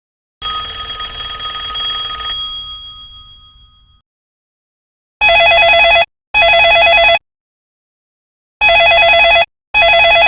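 A chiming tone that rings out and fades away over about three seconds. This is followed by an LG CYON LG-LP2400 mobile phone ringtone imitating a telephone ring: a warbling trill in short double bursts, heard as two pairs.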